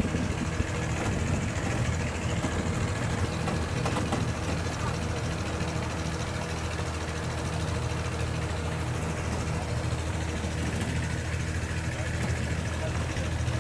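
A motor engine running steadily at idle, a low even hum, with faint voices in the background.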